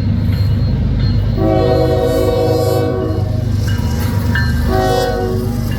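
Canadian National GE diesel locomotives, an ES44DC and an ET44AC, rumbling heavily with a stack train while a multi-note locomotive air horn sounds for a grade crossing. There is one long blast beginning about a second and a half in and a short blast near the end.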